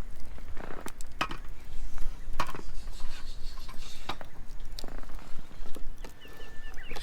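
Several irregular hard knocks and clacks of wood, a handful spread a second or so apart, over a low steady rumble.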